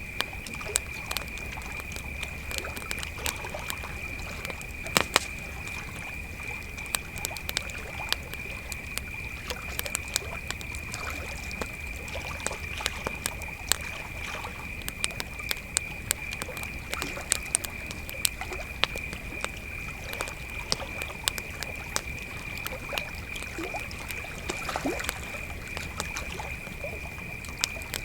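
Crickets chirping in a steady high trill, with a wood campfire crackling and popping irregularly throughout; the loudest pops come about five seconds in.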